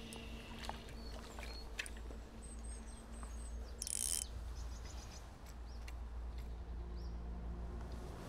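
Small birds chirping and tweeting in short high calls, with a brief loud hiss about four seconds in.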